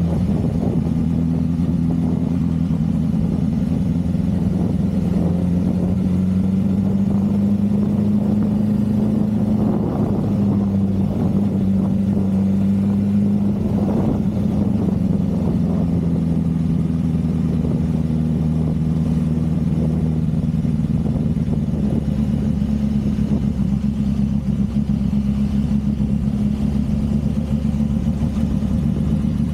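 Motorcycle engine running steadily while riding, its note holding fairly even with small shifts in pitch as the speed changes.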